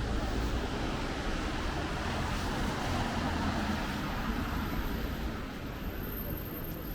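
City street traffic: the steady rumble and hiss of passing cars, easing slightly about five seconds in.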